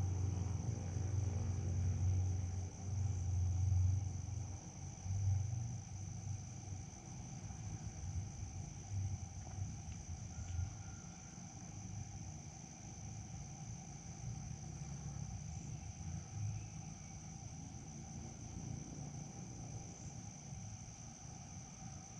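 Crickets or other insects trilling steadily at one high pitch, with a low irregular rumble that comes and goes over the first half and then dies down.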